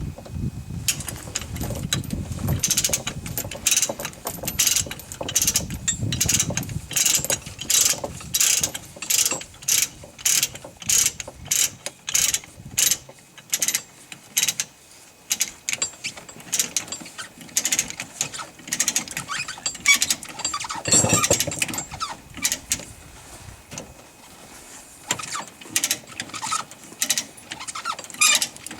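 Ratcheting chain binder being cranked tight on a tie-down chain, clicking about twice a second.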